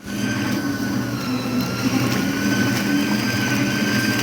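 Electric washing machines running steadily: a continuous motor hum with a thin, high, steady whine over it.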